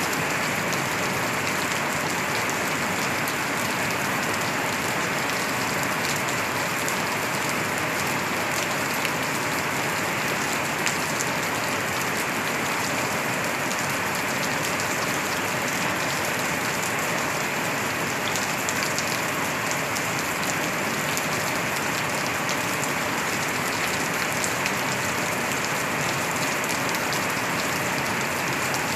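Steady rain falling: an even hiss of water with a fine patter of many drops, unchanging throughout.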